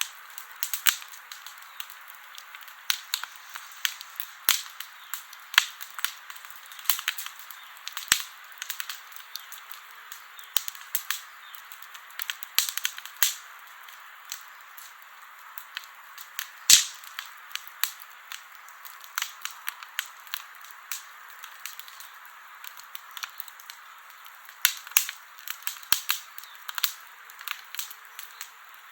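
Wood campfire burning, a steady hiss of flame with frequent sharp, irregular crackles and pops from the burning logs, one louder pop about seventeen seconds in.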